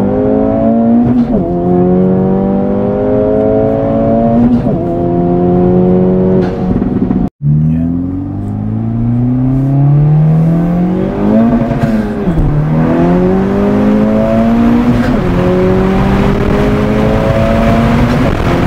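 A 2024 Acura Integra Type-S's turbocharged 2.0-litre four-cylinder, fitted with an open ram-air intake and catted downpipe, heard from inside the cabin as the car accelerates hard through the gears. The revs climb steadily and drop sharply at each of about four upshifts.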